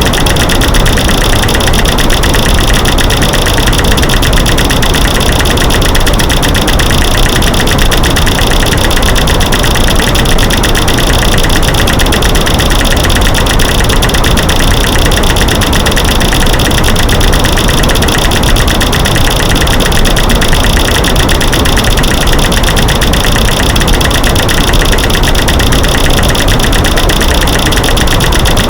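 Loud, steady masking noise: a dense, unbroken stream of rapid clicks and cracks, made by layering light switch clicks, snapping sticks and knocking rocks, over a white noise background.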